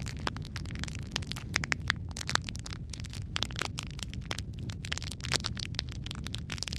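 Wood fire crackling in a fireplace: frequent sharp pops and snaps, several a second and uneven in strength, over a low steady rumble of the burning.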